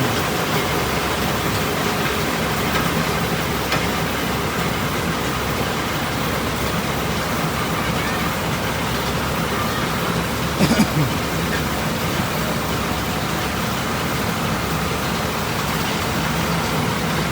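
Truck engine running steadily, with a brief louder sound about ten and a half seconds in.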